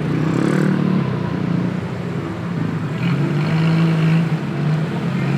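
A motor vehicle engine running close by with a steady hum that shifts a little in pitch, amid street noise.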